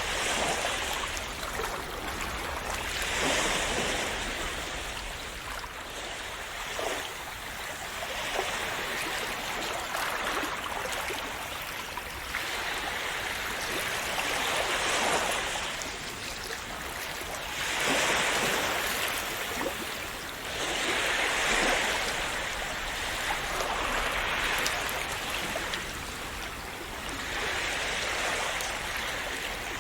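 Small sea waves washing and splashing on a shore, a soft surge of foamy water every few seconds over a constant wash.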